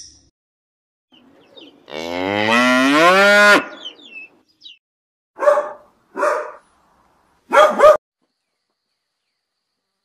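A cow mooing once, a long call rising in pitch, followed by three short animal calls a few seconds later.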